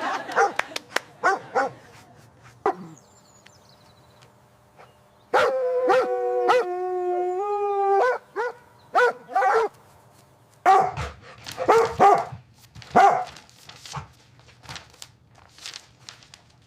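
A dog barking in short bursts. In the middle comes one long pitched whine lasting about two and a half seconds, its pitch stepping up and down, then more barks that grow fainter toward the end.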